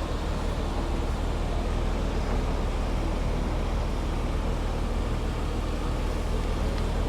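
Chrysler 300M's 3.5-litre V6 idling with a steady low hum.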